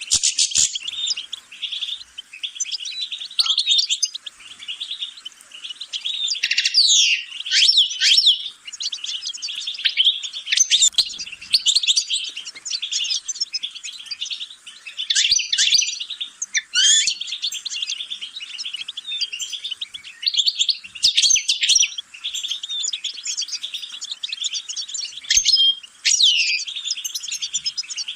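European goldfinch singing a long, unbroken twittering song of rapid trills, with quick sweeping notes rising and falling every few seconds.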